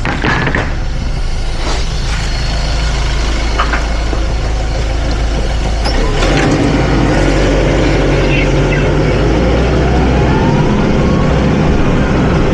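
Hyster H100FT forklift engine running steadily, with a few sharp knocks early on. About halfway through the engine gets louder and a rising whine builds.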